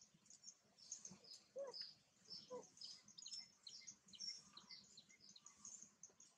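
Faint birds chirping in quick, short high notes, with two short lower calls about one and a half and two and a half seconds in.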